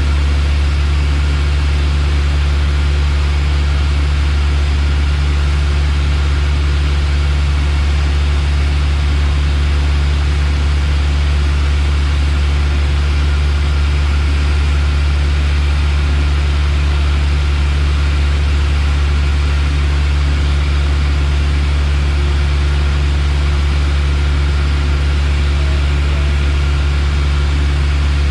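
Piper Warrior's four-cylinder Lycoming engine and propeller droning steadily, heard inside the cockpit as a deep, even hum under a constant rushing noise.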